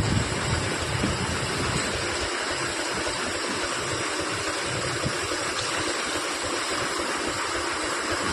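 Steady rushing road and wind noise of a moving truck, with a low rumble that eases off about two seconds in.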